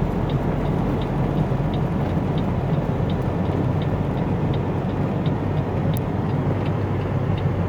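Steady low rumble of a car driving slowly, heard from inside the cabin, with a faint regular ticking about three times a second.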